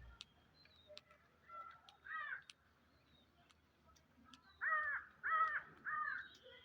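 Harsh, cawing bird calls: one about two seconds in, then three louder ones in quick succession near the end, with a few faint ticks between.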